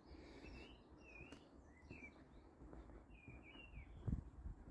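Small birds chirping faintly, a handful of short calls scattered through, over a low outdoor rumble, with one soft low knock about four seconds in.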